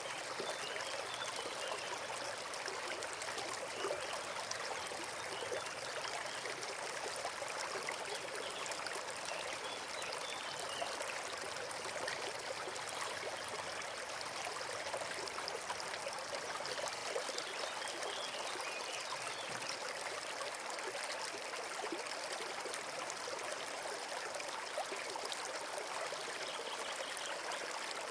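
Small forest brook trickling and babbling steadily.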